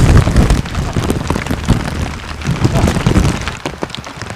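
Rain pattering, with many small crackling drop hits, over low thumps and rumble that fall away about three and a half seconds in.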